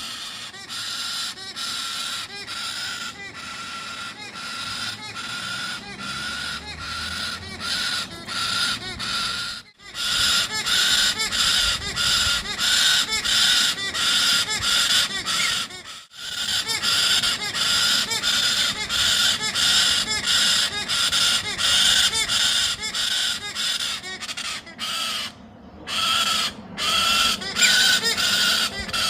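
Baby galah begging: harsh, grating squawks repeated rapidly, about two to three a second, with a few brief pauses.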